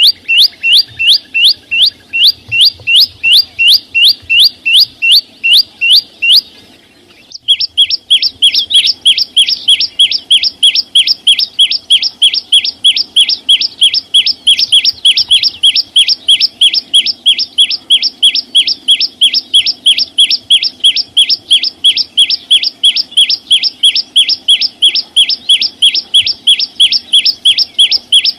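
Small songbird calling: a rapid, evenly spaced run of identical short high chirps, about three to four a second. They stop briefly about seven seconds in, then resume a little faster.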